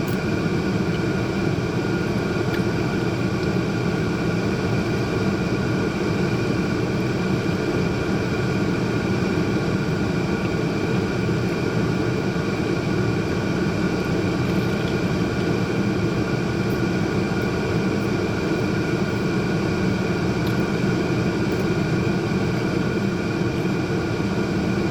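Steady, unchanging mechanical hum with several constant tones.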